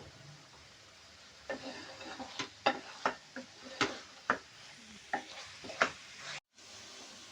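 A spoon scraping and knocking against a cooking pan as food is stirred: a quick run of about ten strikes in the middle, over a faint steady sizzle.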